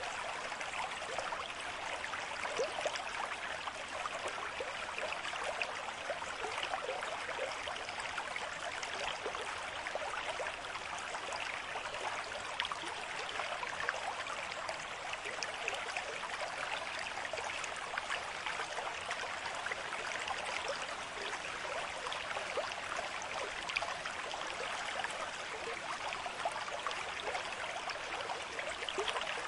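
Stream water running steadily: an even rush of water dotted with many tiny splashes and gurgles.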